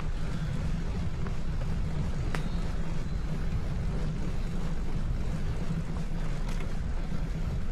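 Steady low rumble of wind and riding noise on the microphone of a camera carried on a bicycle, with a couple of faint clicks.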